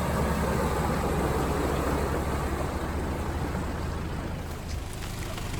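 Vehicle engine running with a steady low rumble, growing somewhat quieter about four and a half seconds in.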